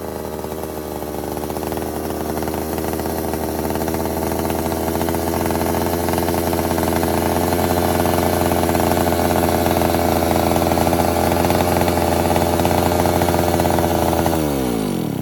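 Restored ECHO chainsaw's two-stroke engine running steadily, then winding down in pitch and stopping near the end as it is shut off.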